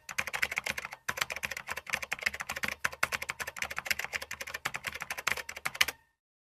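Computer keyboard typing: a fast, uneven run of keystroke clicks that stops abruptly about six seconds in.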